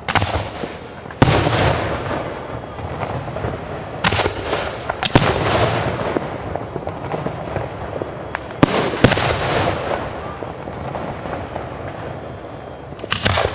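Aerial fireworks shells bursting at a fireworks display: about eight sharp bangs, several coming in close pairs, each trailing off over a second or two.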